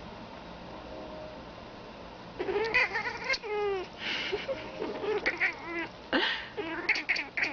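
Domestic cat chirping and chattering at birds: after about two and a half seconds of quiet it gives a series of short, pitched chirps and trills, including one rapid run of quick falling notes, in several bursts to the end.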